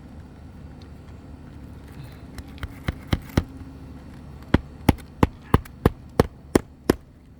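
Hammer striking roofing nails on asphalt shingles: four quick blows about two and a half seconds in, then a steady run of eight blows at about three a second.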